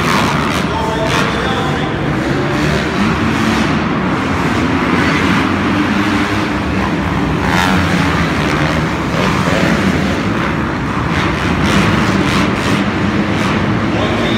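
Dirt bike engines running, their pitch wavering up and down over a continuous loud din.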